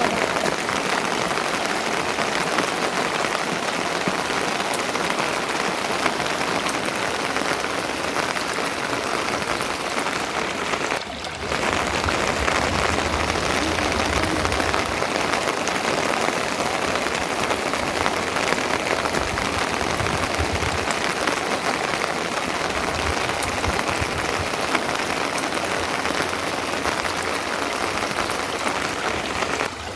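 Steady rain falling and pattering on a surface, with a brief drop about 11 seconds in.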